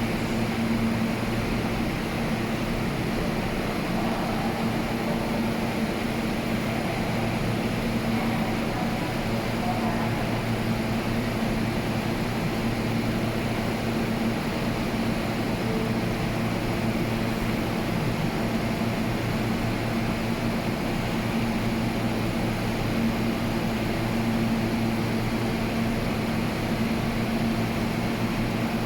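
Steady low machinery hum in a subway station, even and unchanging, with no train moving through.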